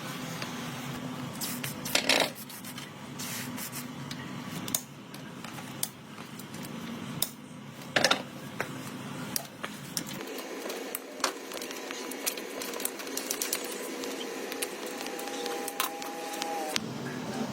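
Irregular small clicks, taps and scrapes of hand work on metal parts, with two louder knocks about two and eight seconds in.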